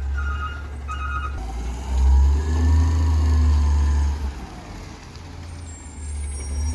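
Garbage truck's reversing beeper sounding in evenly spaced beeps, stopping about a second in. The truck's engine then revs up and back down for about two seconds, with a whine that rises and falls, before settling back to a lower rumble.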